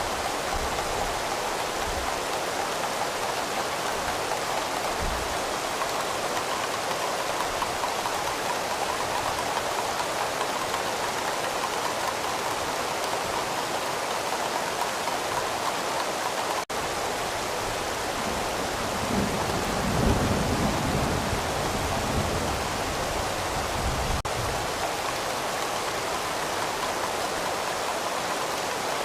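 Steady heavy rain falling, an even hiss, with a low rumble of distant thunder about two-thirds of the way through. The sound drops out for an instant a little past halfway.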